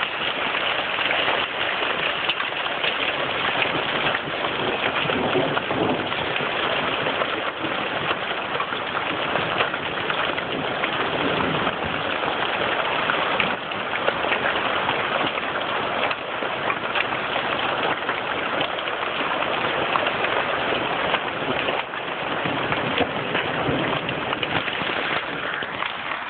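Hail and heavy rain pelting down in a steady, dense patter of many small impacts.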